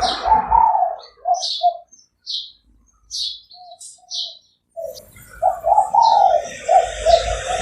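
Spotted dove cooing in short low notes: a few at first, a pause, then a louder run of coos near the end. Short high chirps of small birds sound between them.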